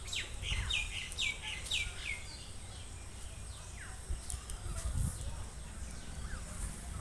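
A bird calling: a quick series of about six short notes that each drop in pitch, then a longer falling call and a faint one later.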